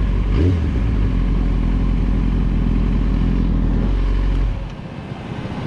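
Motorcycle engine running steadily while riding. The sound drops noticeably in level about four and a half seconds in.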